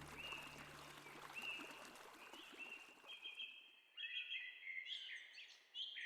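Woodland birdsong: a small bird repeats a short chirp about once a second over a steady hiss that fades out by about halfway. Then several sharper, varied bird calls follow.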